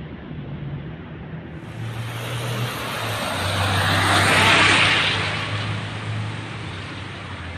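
A car passing by: its noise swells to a peak about halfway through and then fades.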